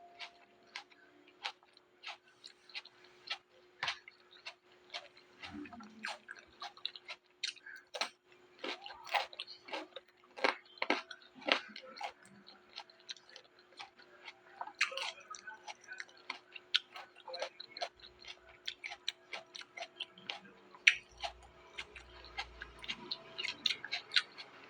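Close-up chewing and crunching of raw vegetables: a run of irregular crisp crunches, sparse at first and denser from about eight seconds in, over a faint steady hum.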